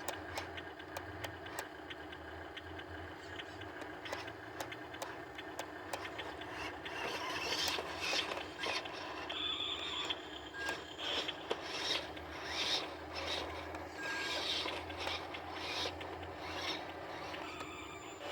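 A truck engine runs with a steady low hum, with irregular scraping and rasping noises over it that grow busier about seven seconds in.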